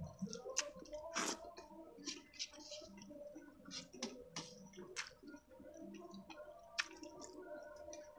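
Close-up mouth sounds of eating: wet chewing and lip smacks, with soft squishes as fingers press rice together on a plate. Scattered sharp clicks run through it, the loudest about a second in and another near the end.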